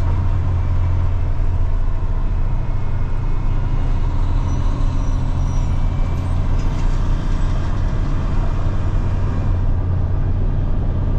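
Semi truck's diesel engine and road noise heard from inside the cab while driving: a steady, loud low drone.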